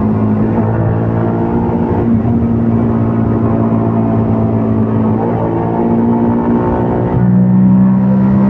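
CFMOTO Papio 125 mini-bike's single-cylinder engine running under way, holding fairly steady revs with a few small rises in pitch. Near the end the note drops lower and gets louder.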